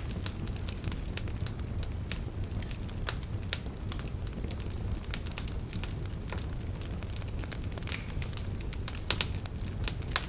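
Campfire burning, the wood crackling and popping at irregular intervals over a low steady rumble, with a few louder pops about nine seconds in.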